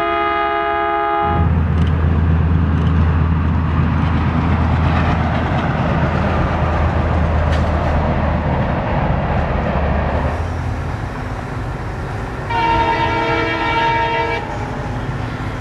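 A diesel-hauled train on the Konkan Railway passes close by. The locomotive horn sounds at first and cuts off about a second in, followed by the steady drone of the engine and the rush of the passing coaches with a few wheel clicks. A second horn blast of about two seconds comes near the end.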